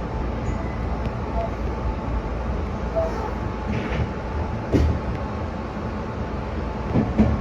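Meitetsu electric train running, heard from inside the car: a steady low rumble with two sharp knocks, one past the middle and one near the end.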